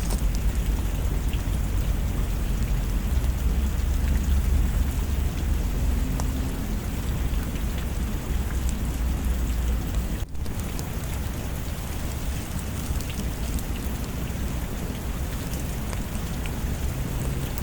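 Steady rain with a low rolling thunder rumble, strongest in the first half. The sound drops out for an instant about ten seconds in.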